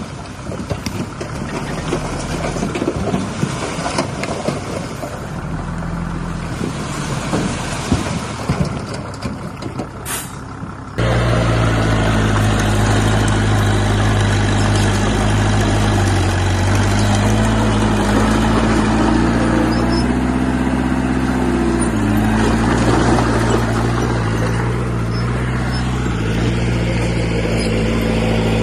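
Diesel engine of heavy earthmoving machinery running, with clattering knocks at first. About a third of the way in the sound jumps abruptly to a louder, steadier engine whose pitch dips and rises a little as the load changes.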